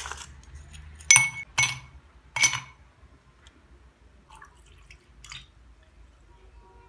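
Glassware clinking in a kitchen: three ringing knocks of glass between about one and two and a half seconds in, then a few lighter taps.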